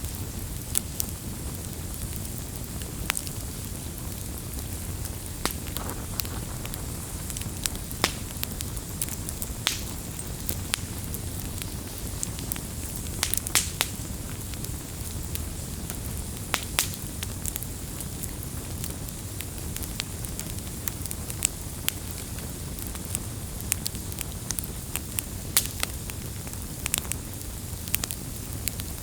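Campfire crackling: irregular sharp pops and snaps of burning wood, some single and some in quick clusters, over a steady low rumble.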